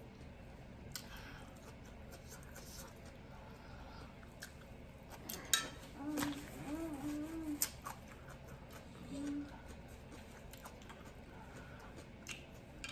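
Close-miked eating sounds: chewing with a few sharp clicks of cutlery or crockery. Short hummed 'mm' sounds from a voice come about six seconds in and again near nine seconds.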